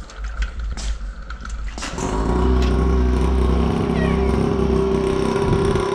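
A few clicks and knocks, then about two seconds in the dirt bike's motor comes on and runs steadily at an even pitch.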